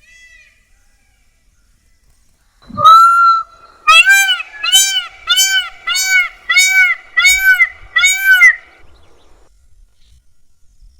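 Indian peafowl (peacock) calling loudly: one long call with a sharply rising start, then a run of about seven shorter arched honking calls, roughly one and a half a second, that stop near the end.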